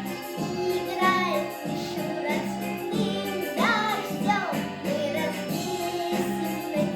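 A child singing a Russian children's New Year song over a backing track with a steady, pulsing beat.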